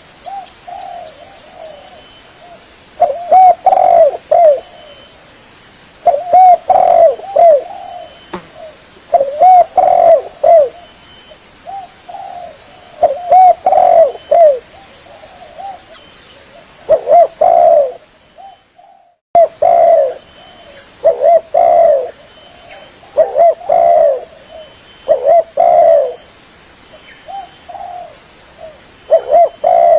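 Spotted dove (tekukur) cooing, played as a bird-lure call: phrases of soft, bending coos repeat about every three seconds. Briefly cuts out a little past the middle, then carries on.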